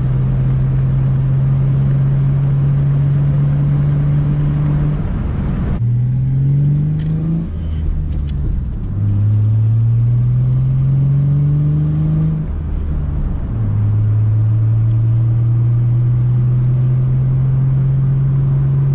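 V6 car engine under way with a manual gearbox: running at a steady pitch, then rising twice with a drop in pitch between the climbs as it is shifted up, then settling into steady cruising.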